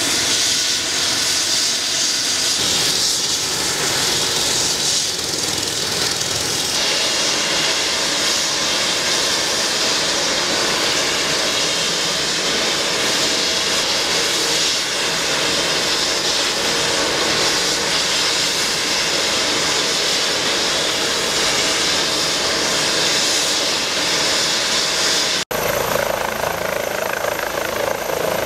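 Air ambulance helicopter running, a loud steady rush of turbine and rotor noise. The sound changes abruptly about 25 seconds in.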